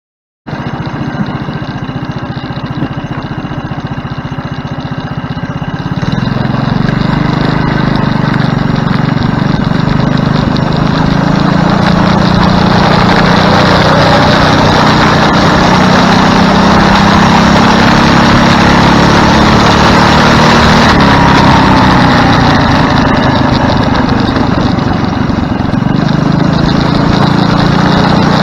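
Go-kart's small engine running, growing louder about six seconds in as it is given more throttle, then staying steady and loud with a few rises and falls in pitch.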